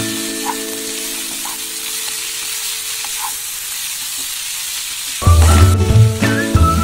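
Bamboo shoots sizzling as they are stir-fried in a pan and turned with a wooden spatula, with a few light scrapes. Background music fades at the start and comes back loudly about five seconds in.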